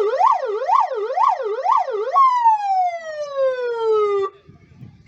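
Fire engine's electronic siren on yelp, sweeping quickly up and down about twice a second. About two seconds in it switches to a single long falling tone that cuts off suddenly.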